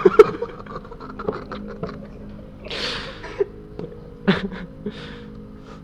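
Whispering and breathy hissing close to the microphone, in two bursts about halfway through and near the end, among sharp clicks and taps.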